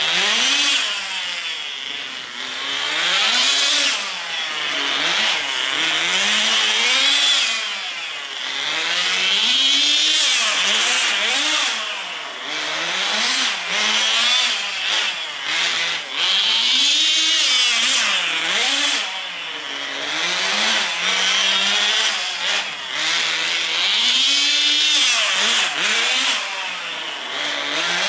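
Tamiya TGS 1/10 nitro RC car's small engine revving up and down over and over as the car is driven, its buzzing pitch rising and falling every second or two.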